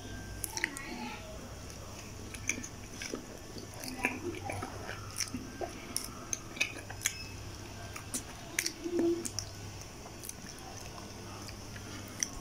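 Close-up chewing and mouth sounds from someone eating, with irregular wet clicks and smacks.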